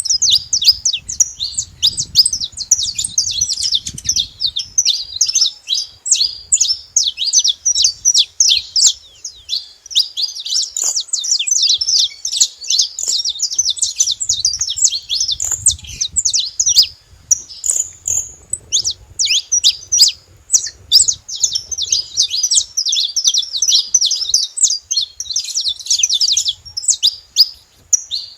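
Saffron finch chirping and singing: a rapid, continuous stream of short high chirps, with a brief pause about 18 seconds in.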